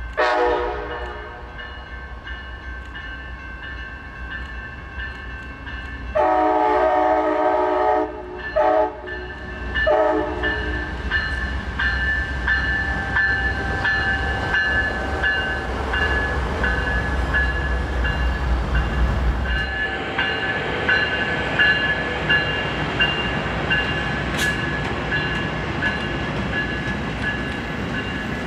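Amtrak passenger train passing close by with its diesel locomotive horn blowing: a falling note at the start, then a long blast and two short ones about six to ten seconds in. A bell rings steadily throughout. The deep rumble of the locomotives' diesel engines stops about twenty seconds in, and the passenger cars then roll by with a clatter of wheels on rail.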